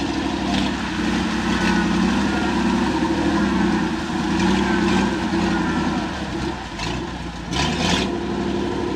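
Off-road 4x4's engine running steadily, with a short burst of noise about three-quarters of the way in.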